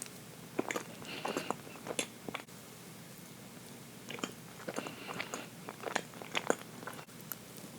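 Close-up mouth sounds of a person biting and chewing chocolate cake: two bouts of chewing with sticky clicks, separated by a short pause.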